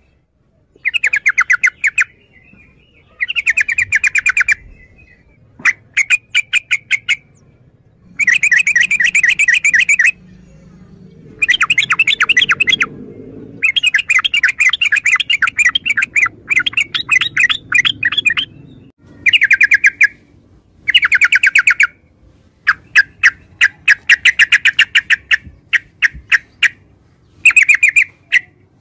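Yellow-vented bulbul singing in about a dozen bursts of fast, rapidly repeated notes, each burst a second or two long, with short pauses between.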